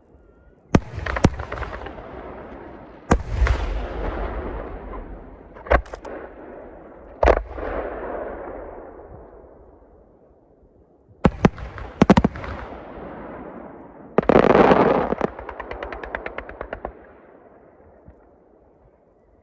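Aerial firework shells bursting: sharp bangs, some single and some in quick pairs, each followed by a long rolling echo. Near the end a loud burst breaks into rapid crackling that thins out.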